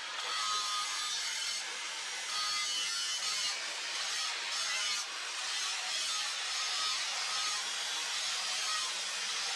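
Steady scraping, abrasive noise of a tool working material, with its level shifting every second or two.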